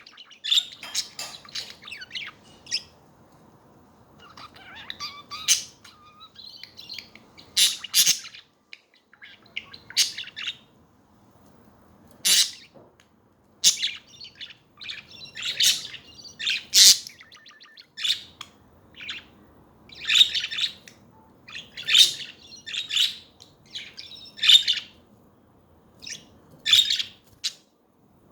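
Budgerigars (budgies) chattering: short, sharp chirps repeated about once or twice a second, with some warbling in between.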